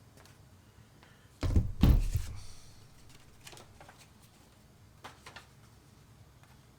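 Two heavy thumps, a fraction of a second apart, about a second and a half in, then a few faint clicks and taps.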